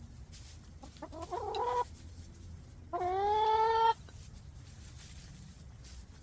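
Domestic hens calling: a short rising call about a second in, then a longer, louder drawn-out call about three seconds in.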